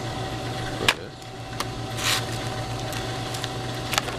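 Two sharp knocks and a short scrape as cut pieces of asphalt roofing shingle are handled on a workbench, over a steady low hum.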